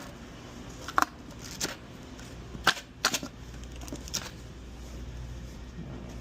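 A handful of sharp, irregular clicks and knocks, like objects being handled, over a steady low hum.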